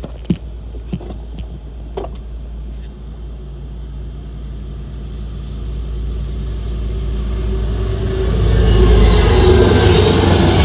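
Norfolk Southern freight train's diesel locomotives approaching: a low rumble that grows steadily louder and peaks as they pass about eight seconds in, running on into the rolling of double-stack container cars. A few sharp clicks near the start.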